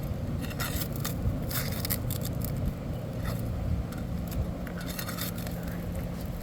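Scraping and scratching in short, irregular bouts as nails are worked out of 3-tab asphalt shingles, over a steady low hum.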